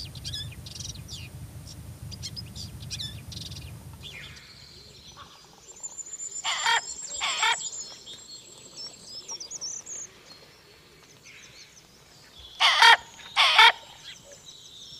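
Wild birds calling. Small birds chirp over a low rumble at first. Two loud calls come in quick succession a little past six seconds in, with a thin high trill around them, and two more loud calls come near the end.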